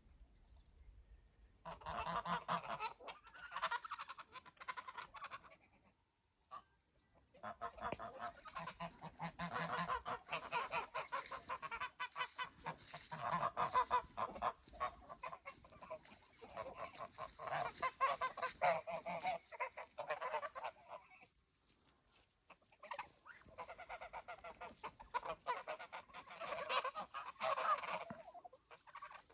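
German fattening (Alman mast) geese honking, rapid repeated calls in three long bouts with short pauses between them.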